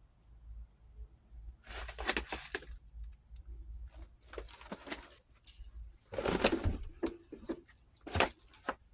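Jangling, clinking rattle of small hard objects being handled, in two bursts, about two seconds in and again about six seconds in, with scattered clicks between.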